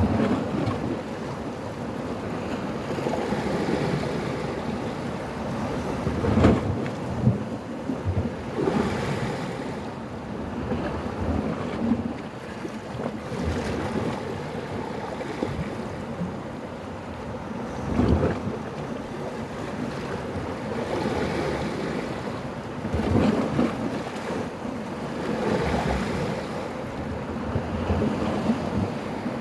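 Black Sea surf breaking on the shore: a continuous wash of waves with louder breaks at irregular intervals of a few seconds.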